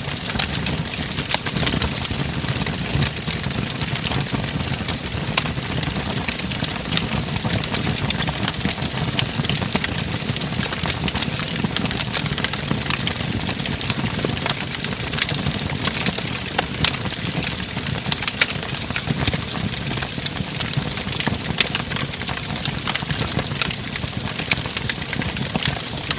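Wood fire crackling in a fireplace: a steady low rumble of burning with frequent small, sharp pops and snaps scattered throughout.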